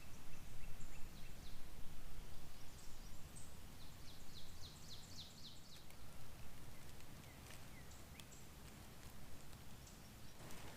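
Wild songbirds singing, the clearest a quick run of about ten high down-slurred notes a few seconds in, over a steady low rumble of wind.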